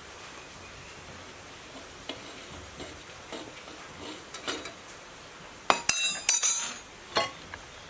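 Metal parts and tools clinking and rattling as they are handled: a few faint light clicks, then a loud burst of clinks about six seconds in and one more clink about a second later.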